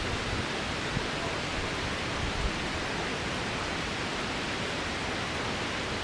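Steady rushing of water, an even hiss with no rhythm or pitch, with two soft low bumps, about a second in and about two and a half seconds in.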